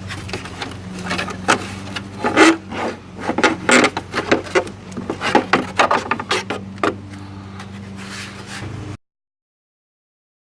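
Hand work on engine parts: a quick run of scrapes, rubs and clicks as pieces are worked loose, over a steady low hum. The scraping stops about 7 s in, and the sound cuts off abruptly to silence about 9 s in.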